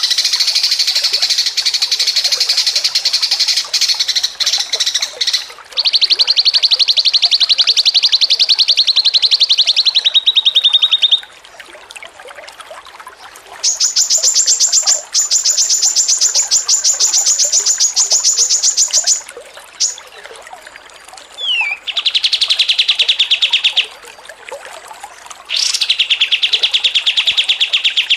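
Songbird singing in long runs of very rapid, high trilled notes, each run a few seconds long with short pauses between. The highest and brightest run comes about halfway through, and a quick down-slurred note falls just before the last two lower trills.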